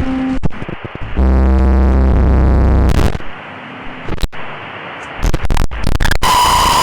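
Loud, harsh, distorted electronic noise cut into abrupt chunks, ending in a piercing steady high tone a little after six seconds in.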